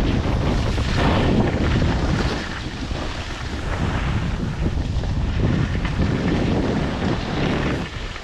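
Strong wind buffeting the microphone: a loud, unsteady rush of noise, heaviest in the low end.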